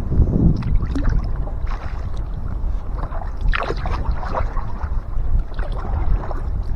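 Kayak paddling: irregular paddle splashes and water washing against the hull, over a steady low rumble of wind on the microphone.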